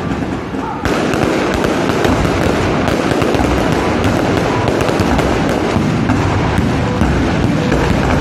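A barrage of aerial fireworks: many rapid bangs and crackles running together, getting louder and denser about a second in.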